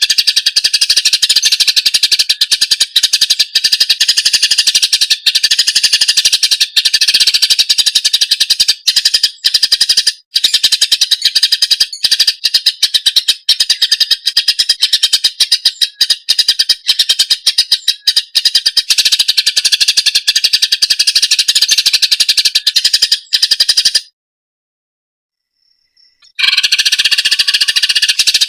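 Cucak ijo (green leafbird) song: a fast, dense, unbroken chattering trill, loud, breaking off about 24 seconds in for two seconds of silence and then starting again.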